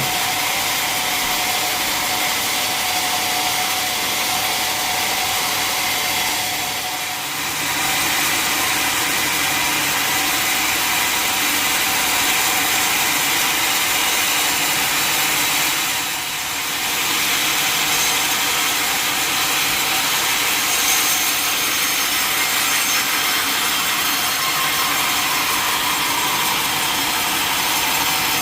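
Sawmill saw cutting lengthwise through a large mahogany log, a steady harsh rasp that eases briefly twice.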